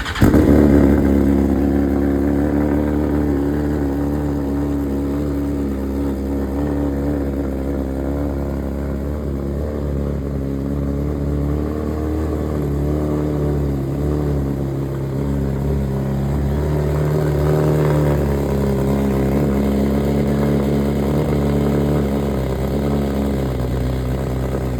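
BMW S1000RR's inline-four engine catching on a cold start, flaring up briefly, then settling into a steady cold idle.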